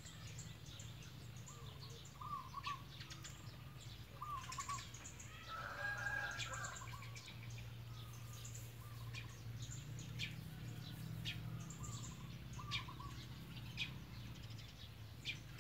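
A bird calling with short, repeated chirps every second or two, over a low steady hum and faint sharp ticks.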